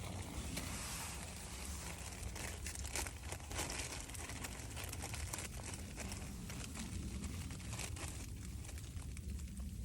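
Sleet and snow pattering on a thin tent roof during a snowstorm: a dense, irregular crackle of small hits over a low steady rumble.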